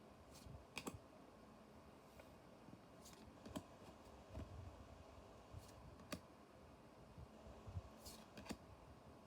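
Faint, scattered sharp clicks of trading cards being handled and flicked through one by one, at irregular intervals.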